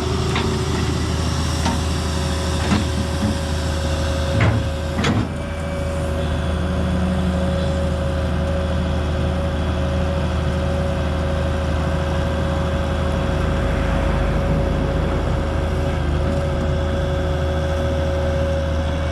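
Excavator's diesel engine running steadily with a steady whine over it, and a few sharp knocks and clanks in the first five seconds, the loudest about five seconds in.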